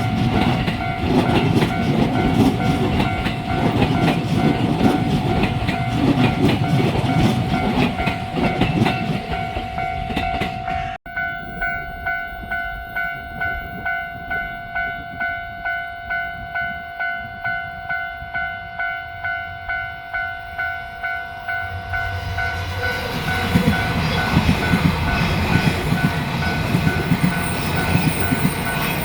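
Train rumbling through a Japanese railway level crossing while the crossing's alarm bell clangs. About a third of the way in the rumble stops abruptly. The bell's steady clanging then stands out alone, just under two strikes a second, until a second train's rumble builds up under it near the end.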